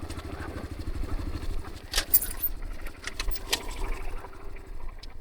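Dirt bike engine idling with a low, even pulse, and a few sharp clicks around the middle.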